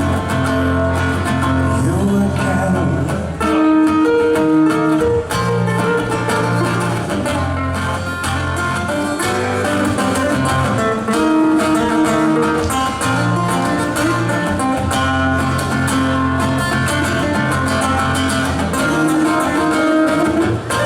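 Acoustic rock band playing an instrumental passage live, led by acoustic guitar, over long held bass notes that change every couple of seconds.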